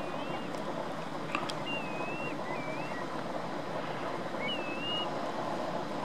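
Several thin, wavering bird whistles, each about half a second long and rising and falling in pitch, over a steady rushing noise of water and wind at the shoreline.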